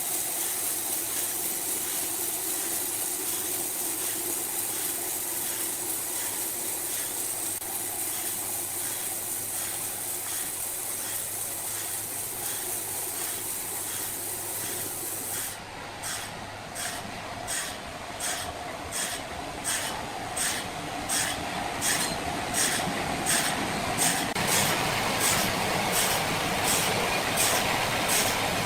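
Steady mechanical hiss with a low hum. About halfway through it gives way to a rhythmic clacking, about two clacks a second, that grows louder.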